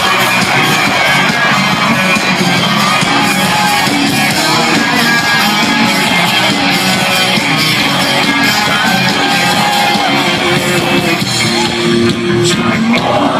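Live rock band playing the instrumental intro of a song: loud, continuous electric guitar, bass and drums, with shouts from the crowd.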